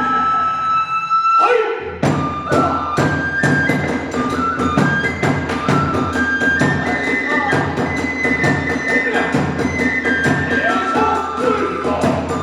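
Hiroshima kagura hayashi music: a fast, even beat on taiko drum and tebyoshi hand cymbals under a bamboo flute melody. The ensemble drops out briefly about two seconds in, then picks up again.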